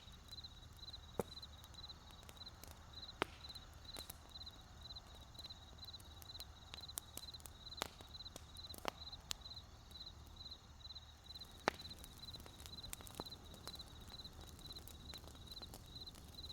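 Wood fire crackling with scattered sharp pops, the loudest about twelve seconds in, over a cricket chirping steadily in an even, rapid rhythm.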